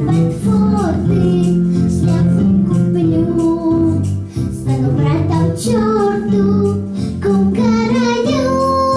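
A song: a high voice sings a melody over instrumental accompaniment.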